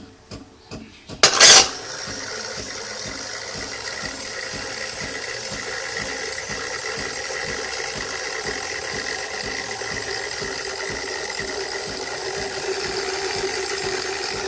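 Automatic bean-to-cup coffee machine working through a flat white: a few light clicks, a short loud burst about a second in, then the machine running steadily with a hum and a quick, even pulsing.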